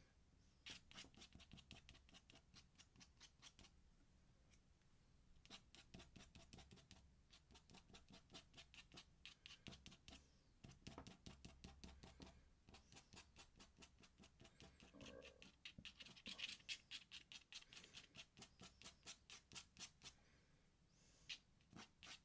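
Faint ink pen scratching on paper in quick, short strokes, several a second, in runs of a few seconds with brief pauses between them.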